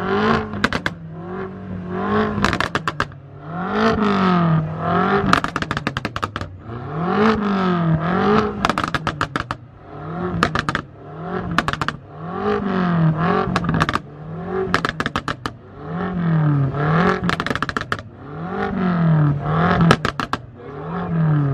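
A sports car's engine is revved hard over and over, about a dozen blips, each rising and falling in pitch. Every lift-off is followed by a rapid string of exhaust crackles and pops. It is very loud, enough to leave ears ringing.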